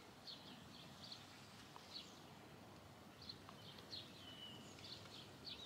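Near silence with faint, irregular bird chirps, and a couple of slightly longer falling whistled calls near the end.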